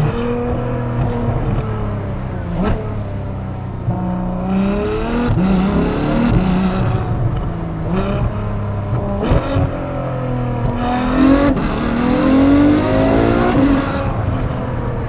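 Ferrari F12 Berlinetta's 6.3-litre V12 revving through rapid gear changes of its seven-speed dual-clutch gearbox. The engine pitch rises and falls again and again, with sharp breaks at the shifts.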